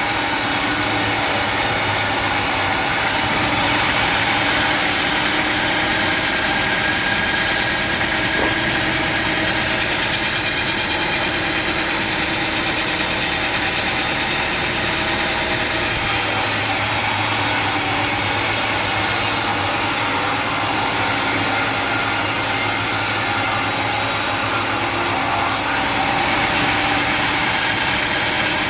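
Sawmill machinery running steadily, with an engine-like drone and one brief sharp knock about halfway through.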